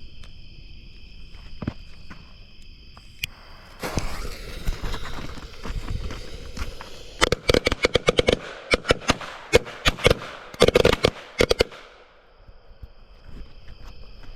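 A roll of Black Cat firecrackers going off inside a carved pumpkin: scattered crackling builds into a rapid string of sharp bangs for about five seconds, then stops. Crickets chirp steadily before the bangs begin and again once they end.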